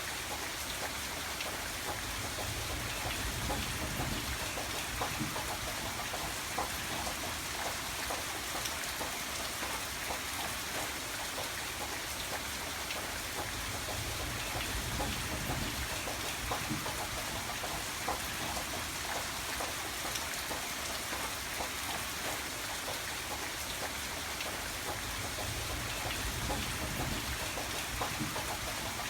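Steady rain falling, with many individual drops heard as small ticks over an even hiss. A low rumble swells and fades about three times underneath.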